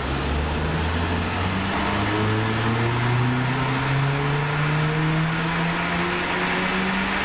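Turbocharged car engine under full load on a rolling-road dyno, its note rising steadily through the revs over several seconds in a power run.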